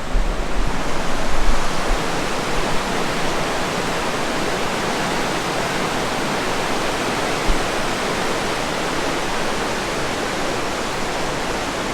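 Steady rushing of a fast river in a rocky canyon, with a low rumble of wind on the microphone in the first couple of seconds.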